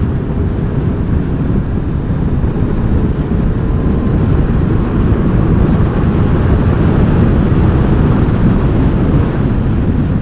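Steady wind buffeting on the microphone with vehicle engine noise underneath, a loud low rumble without clear pitch.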